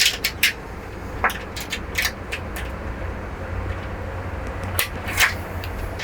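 Scattered sharp clicks and light knocks of hands working a strap and its fittings on a travel trailer's exterior. Most come in the first three seconds, with a louder pair about five seconds in, over a low steady hum.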